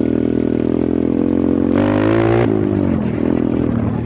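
A 125cc pit bike engine running in gear, with a short burst of rushing noise about two seconds in as the revs rise briefly, then the pitch falling as the bike slows.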